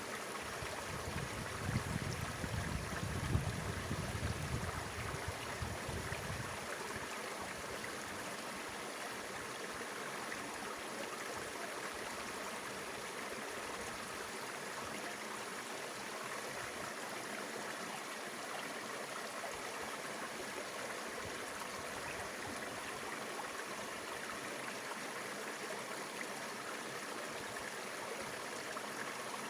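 Mountain river water rushing steadily over rocks. For the first few seconds a low rumble with a few louder knocks sits under it.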